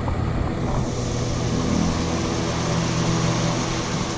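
Heavy rain falling outside an open overhead shop door, a steady hiss that grows louder about half a second in, over the steady hum of a shop ventilation fan.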